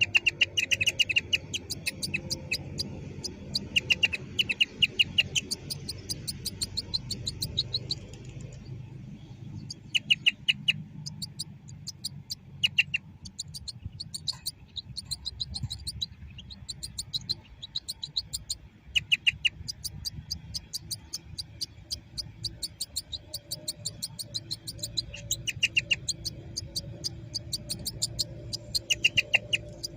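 European goldfinch singing: a continuous stream of rapid twittering notes, broken every few seconds by short fast trills. A steady low rumble lies underneath.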